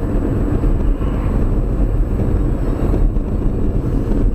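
Steady loud rumble of a moving vehicle.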